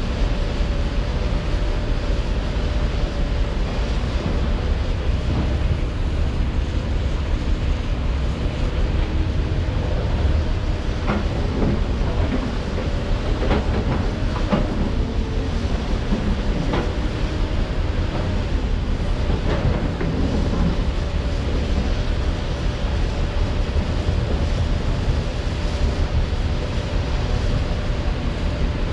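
Heavy diesel construction machinery, an excavator at work, running steadily with a constant whine over a deep rumble. Around the middle comes a series of metallic clanks and knocks.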